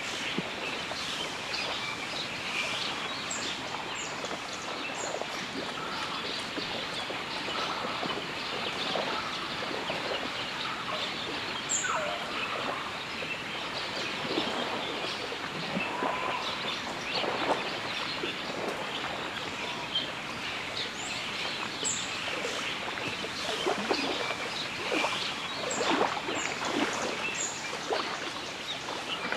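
Many wild birds calling over a steady outdoor hiss, with very high, short chirps repeated in small runs of three or four.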